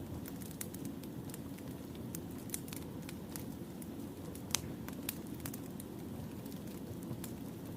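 Wood fire burning, a steady low rumble with frequent irregular sharp crackles and pops of burning firewood, one louder pop about halfway through.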